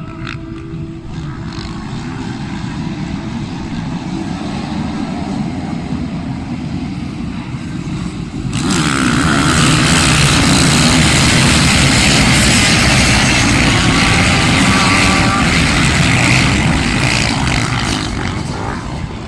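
A field of motocross bikes revving on the start line, then about eight seconds in the pack launches at once into much louder full-throttle engine noise. The noise holds for about nine seconds and eases off near the end as the bikes pull away.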